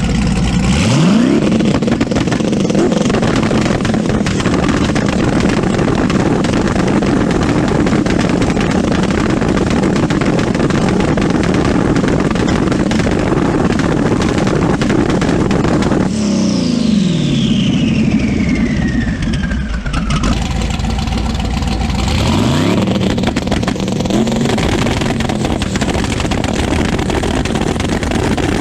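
Turbocharged drag car engine held on its two-step launch limiter, banging and crackling rapidly from the exhaust after the revs rise about a second in. Around the middle the revs drop away under a whistle falling steadily in pitch, then the engine is revved back up onto the limiter.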